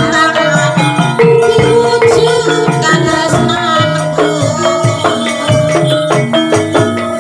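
Javanese gamelan music accompanying a kuda lumping dance: drums and struck metal keys play a busy, fast rhythm, with one long held note about a second in.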